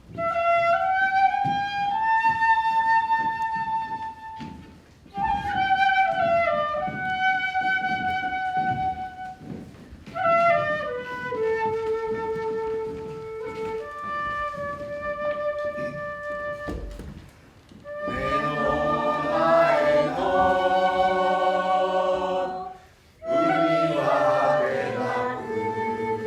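Unaccompanied music: a single high melodic line in long notes that slide up and down between phrases, then, about two-thirds through, a group of voices singing together.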